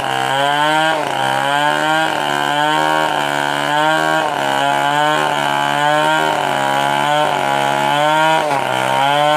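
Stihl 070 two-stroke chainsaw running under load while cutting coconut-palm wood. Its engine pitch repeatedly sags and picks back up as the bar bites and eases in the cut.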